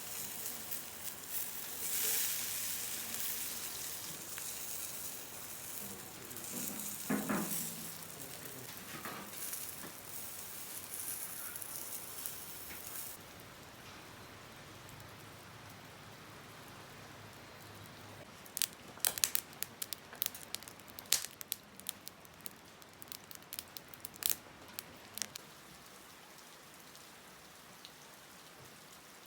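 Food sizzling in a pan over a campfire, a steady hiss that stops about halfway through. Then a quieter background with a cluster of sharp ticks for several seconds.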